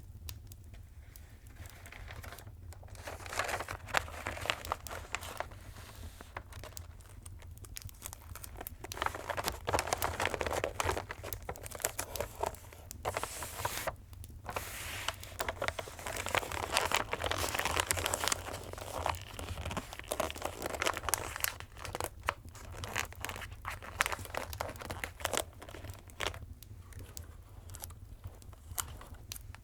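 Gift wrapping paper being handled close up: crinkling, rustling and tearing in uneven bursts, with many small sharp crackles, over a steady low hum.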